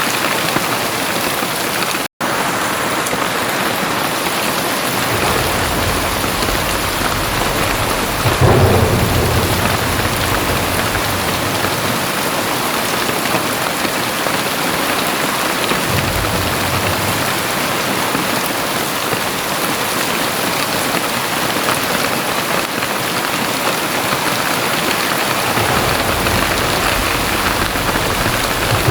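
Very heavy rain pouring steadily, with low thunder rumbling in and out; the loudest rumble comes about a third of the way through. A split-second dropout to silence about two seconds in.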